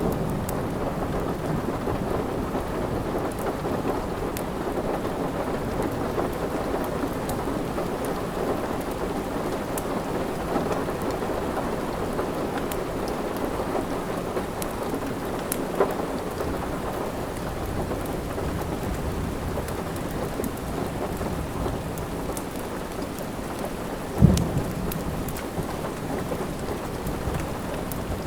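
Steady heavy rain with a deep rumbling wash, with scattered small pops and crackles of a wood fire. A single sharp low thump about 24 seconds in.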